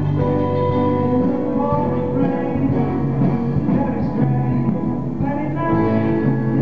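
Live music from subway performers: several instruments playing held, pitched melody notes over a steady bass line.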